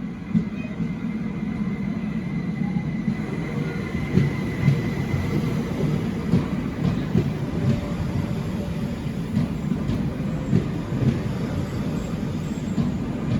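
Train moving slowly on the rails: a steady low rumble with irregular clunks from the wheels, and a faint thin whine during the first few seconds.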